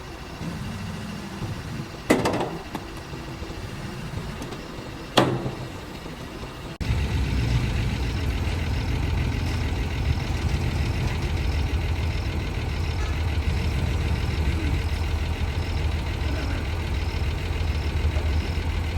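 Two sharp metallic bangs about three seconds apart, each ringing briefly. Then, about seven seconds in, a truck engine comes in suddenly and idles steadily.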